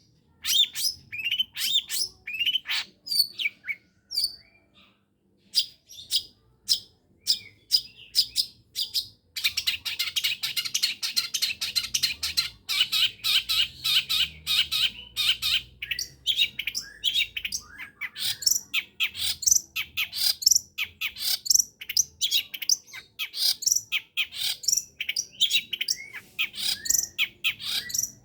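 Long-tailed shrike (pentet) singing: a string of sharp high chirps and whistles, then a dense rapid trill from about ten seconds in for some three seconds, followed by fast chattering phrases.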